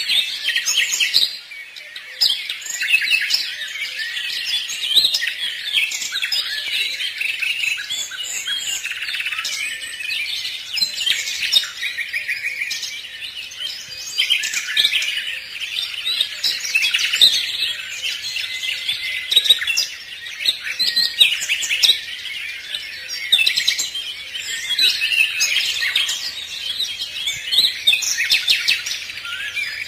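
A chorus of many small birds chirping and singing at once: a dense, continuous tangle of quick, high, overlapping calls with no let-up.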